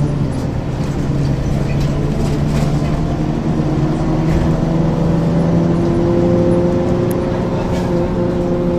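Ikarus 435 articulated bus's diesel engine running steadily under way. Its pitch dips right at the start, then climbs slowly through the second half as the bus gathers speed, with light rattles over it.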